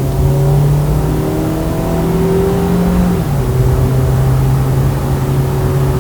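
Passenger car driving, its engine note climbing slowly for about three seconds under acceleration, then dropping suddenly and running steady at the lower pitch.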